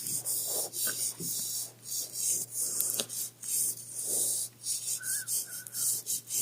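Soft rubbing strokes close to the microphone, repeated at an uneven pace, with a faint steady hum underneath.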